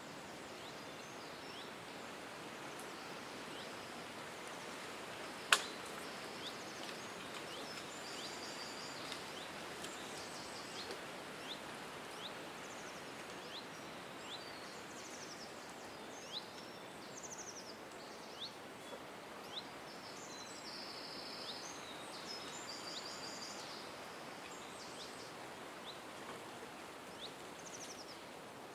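Small birds chirping and trilling, many short high calls and some rapid trills, over a steady background hiss. One sharp click about five and a half seconds in.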